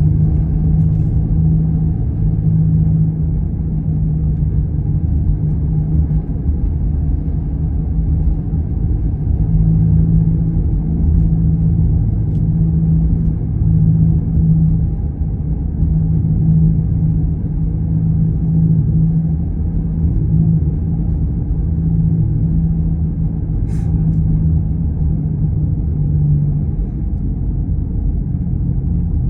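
Bad wheel bearing on a moving car droning: a steady low hum over road rumble that swells and fades in places.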